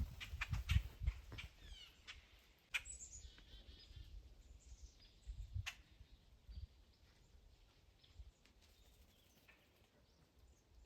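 Wild birds chirping and calling faintly, with a quick falling run of high notes about three seconds in, a few sharp clicks, and low rumbling from wind or handling.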